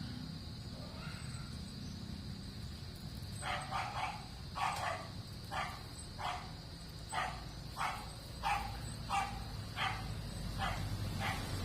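A dog barking repeatedly, about one and a half barks a second, starting a few seconds in, over a steady hiss and a low rumble.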